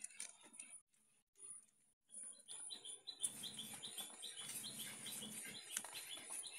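A bird chirping in a rapid series of short chirps, about four a second, starting a couple of seconds in, over faint rustling from handling.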